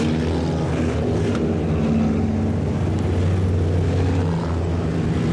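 Several IMCA Sport Compact race cars' four-cylinder engines running together at a steady, moderate speed, with no revving up.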